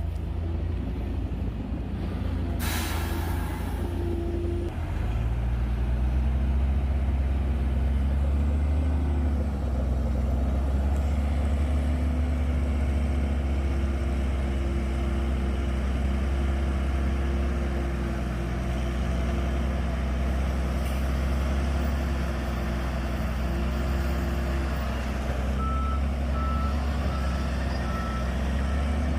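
Bulldozer's diesel engine running steadily under load, its pitch stepping up about five seconds in. A short hiss sounds near the start, and a reversing alarm beeps repeatedly near the end.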